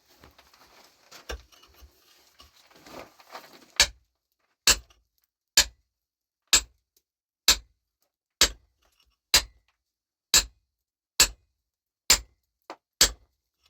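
A run of sharp, evenly spaced strikes, about one a second, each with a short bright ring, starting about four seconds in after faint scuffling.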